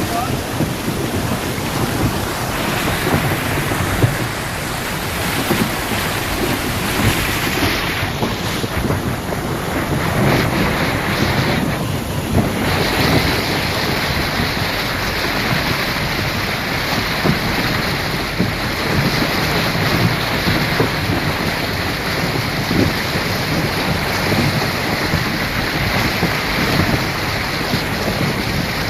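Storm of heavy rain and gusting wind as a steady rush of noise, with wind buffeting the microphone.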